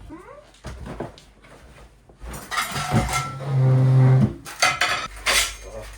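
Dishes and cutlery clattering and scraping in a kitchen. A loud steady low hum with overtones sounds for under a second about midway through.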